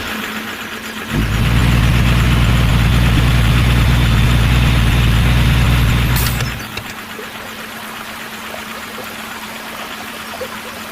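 A vehicle engine idling steadily with a low, even rumble. It starts about a second in and stops about six and a half seconds in, leaving a quieter steady hum.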